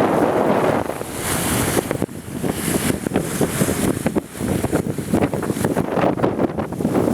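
Strong wind buffeting the microphone in irregular gusts, over the rush of choppy water around a ferry.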